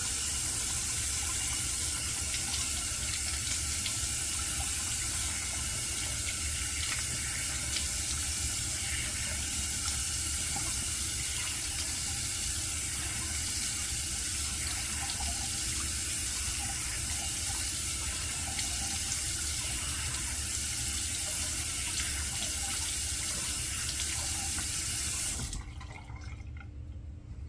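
Sink tap running steadily while the face is rinsed off after a shave; the water is shut off suddenly near the end.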